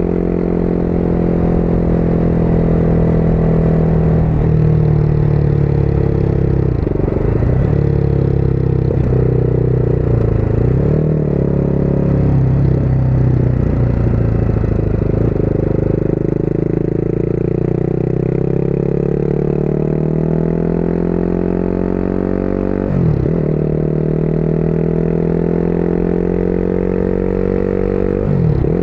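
Motorcycle engine under way: its pitch wavers and dips several times in the first half, then climbs steadily as the bike accelerates, with two brief sharp drops in pitch near the end, as at gear changes.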